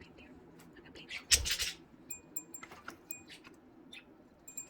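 Pet budgerigars chattering and moving about, with a loud scratchy rustle about a second in. A few short, clear ringing pips follow about two seconds in.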